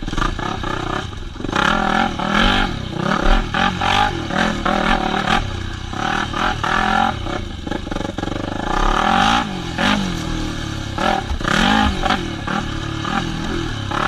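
Yamaha WR250F's single-cylinder four-stroke engine revving up and down over and over as the dirt bike is ridden, with rattling and sharp knocks from the bike over rough ground.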